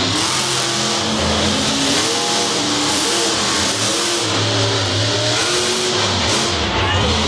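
Monster truck engines running loud over a dense roar, their pitch rising and falling as they rev.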